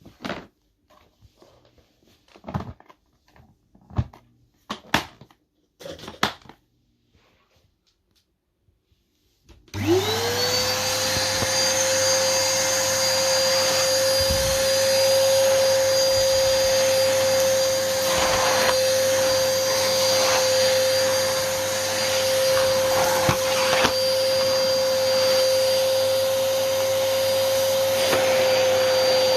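A few scattered knocks and clicks, then the Numatic NuVac VNP180-1 vacuum cleaner's motor is switched on about ten seconds in. Its whine climbs quickly to a steady pitch and it runs steadily with a loud rush of air.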